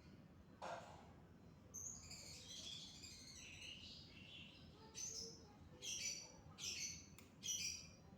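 Small birds chirping faintly: a twittering run of high chirps, then four short bursts of chirps spaced a little under a second apart.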